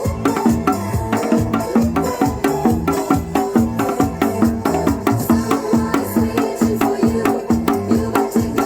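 Janggu (Korean hourglass drum) played in a fast, even disco rhythm over an upbeat backing track with a steady beat.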